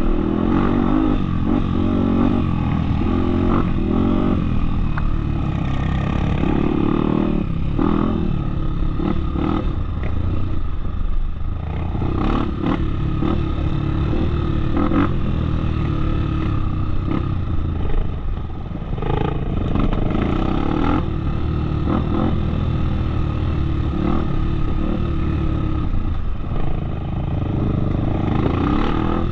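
Off-road motorcycle engine running while being ridden, its revs rising and falling.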